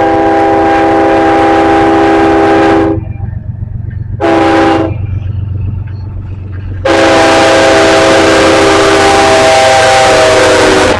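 Union Pacific freight locomotive's multi-chime air horn sounding a long blast, a short blast, then another long blast. This is the end of the long-long-short-long grade-crossing signal. A steady low rumble of the passing train runs underneath.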